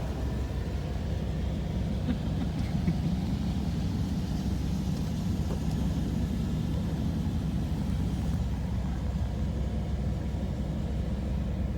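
Steady low rumble inside a pickup truck's cab in an automatic car wash, the machinery and idling truck running without change during the triple-foam pass.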